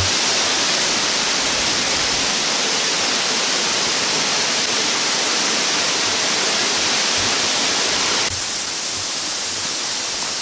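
Steady rushing of a waterfall, a dense even hiss of falling water that drops slightly in level about eight seconds in.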